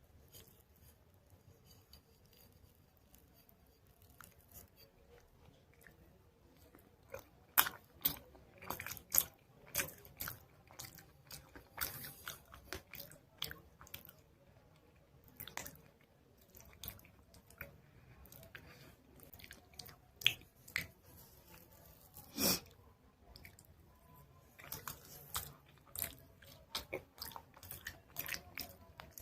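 Biting and chewing dried chalk paste, with irregular sharp crunches. Quiet for the first several seconds, then crunching from about seven seconds in, one of the loudest past twenty-two seconds.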